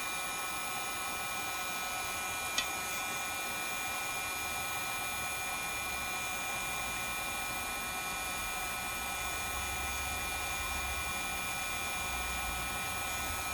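Heat gun blowing steadily, a even rush of air with a faint motor whine, warming the phone's adhesive. One short click about two and a half seconds in.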